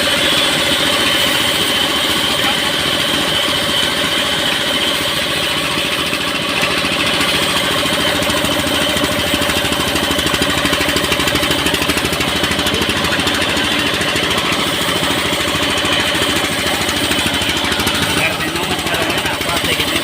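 Sawmill (ara) machinery running steadily, a continuous mechanical drone with a constant hum.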